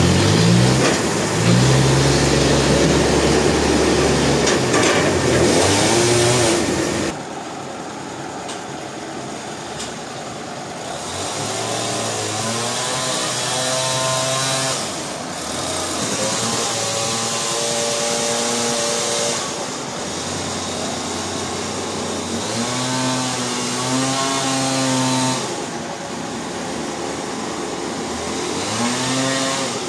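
An engine running and revving up and easing off several times. It is loudest for about the first seven seconds, with a broad rushing noise over it, then drops to a lower level while the revving continues.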